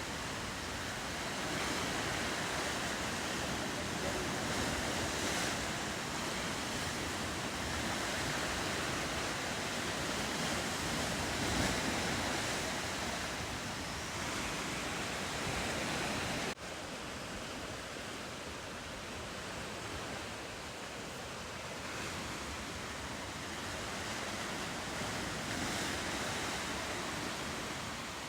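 Steady wash of ocean surf and waves, with some wind; the sound breaks off abruptly about sixteen seconds in and carries on a little quieter and duller.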